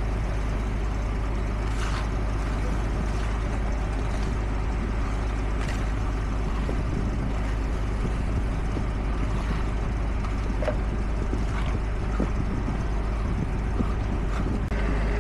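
Steady diesel engine noise from heavy construction machinery running, with a few brief higher-pitched sounds about two, six and eleven seconds in.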